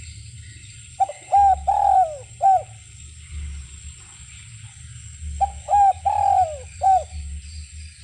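Derkuku dove cooing: two phrases of four notes each, about four seconds apart. In each phrase the third note is the longest, and every note falls in pitch at its end.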